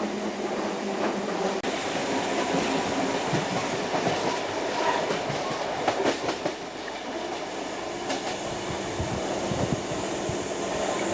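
Sydney electric commuter train running on rails with a steady rumble, its wheels clicking and knocking over rail joints, more plainly in the second half.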